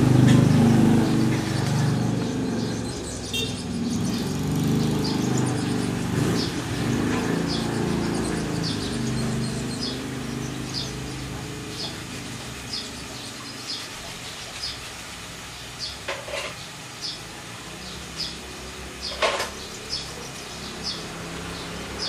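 A low rumble fades away over the first half. A small bird gives short, high chirps, about one to two a second, with a few louder ones toward the end.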